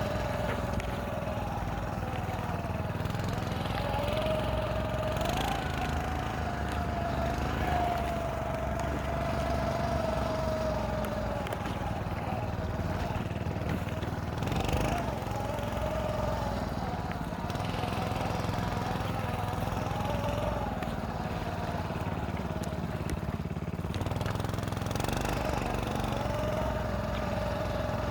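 Motorized snow scooter's small engine running under load while riding through snow, with a steady whine that wavers a little in pitch. A brief knock about halfway through.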